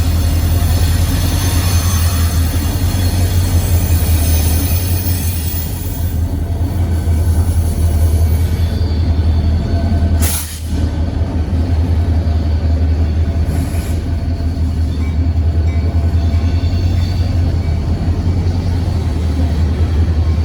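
Freight train rolling past: a steady low rumble of the cars on the rails, with high-pitched wheel squeal strongest in the first few seconds.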